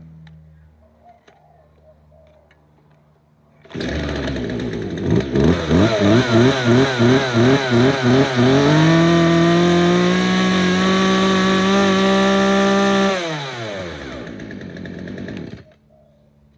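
Two-stroke string trimmer engine starting from cold: it catches about four seconds in and runs unevenly with a fast pulsing warble, then revs up and holds a steady high whine. The pitch then falls and the engine shuts off near the end.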